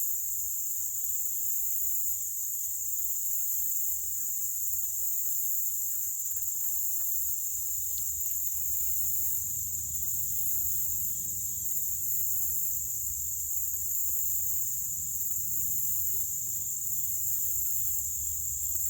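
Steady, high-pitched, unbroken buzzing chorus of insects, with a few faint clicks between about four and eight seconds in.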